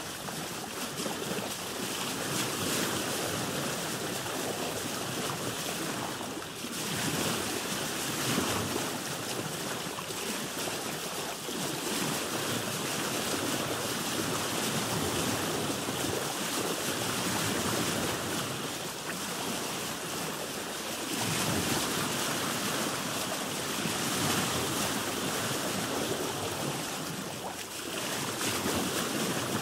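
Ocean waves washing around a boat: a continuous rush of water that swells and eases, dropping back briefly a few times.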